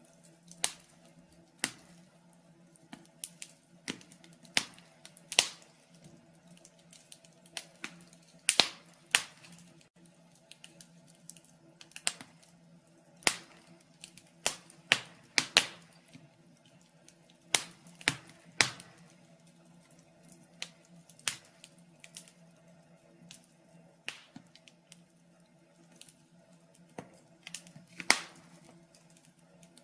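Fire in a fireplace crackling, with irregular sharp pops and snaps, a few of them loud, over a faint steady hum.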